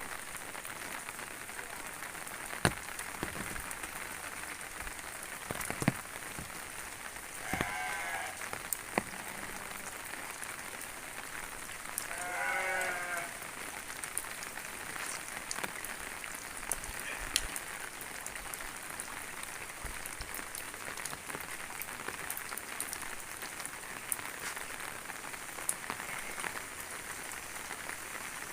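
Steady rain falling, with scattered sharp drip taps. Two bleats rise above it, a short one about seven seconds in and a longer, wavering one about twelve seconds in.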